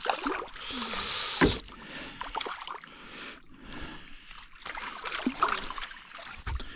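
Water splashing and knocks on a small boat while a hooked carp is brought in. A sharp knock about one and a half seconds in is the loudest sound, and smaller clicks and knocks follow.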